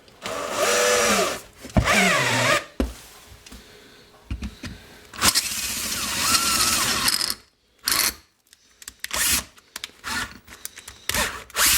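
Electric drill run in three short bursts, its motor pitch rising and falling with the trigger, the last one about two seconds long, followed by scattered clicks and knocks.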